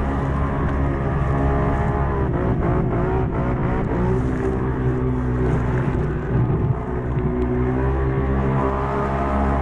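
Quad bike engine running under load and revving, its pitch dipping and climbing again about two to three seconds in, and rising once more near the end.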